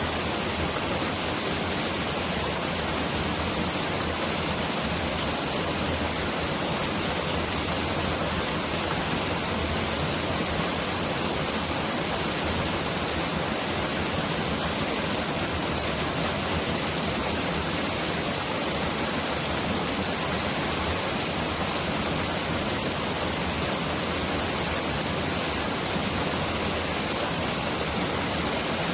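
Mountain stream rushing over rocks, a steady dense rush of water with no change in level.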